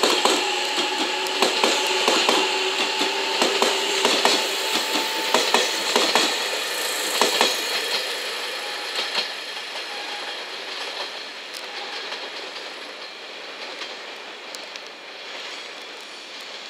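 JR Shikoku 8000 series electric express train passing close at low speed, its wheels clacking over rail joints with a steady whine beneath. It then draws away, and the clatter fades steadily over the second half.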